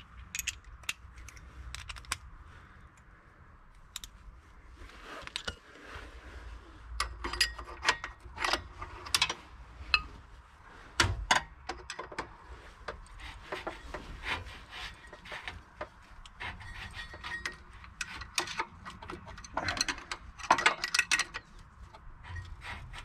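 Metal hand tools at work on bolts: a spanner clinking and clicking against fasteners and engine parts in many irregular short knocks, busiest around a third of the way in and again near the end.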